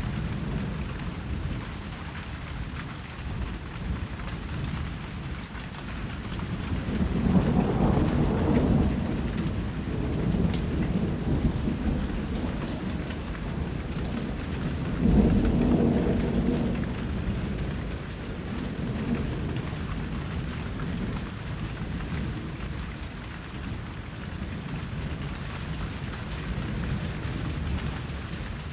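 Steady rain falling, with two low rolls of thunder: one swelling up about a quarter of the way in, and a second, louder one that breaks suddenly about halfway through.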